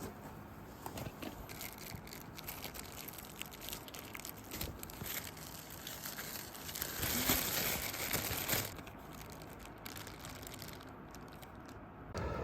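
Rustling and crinkling with scattered light clicks and knocks, loudest between about seven and eight and a half seconds in.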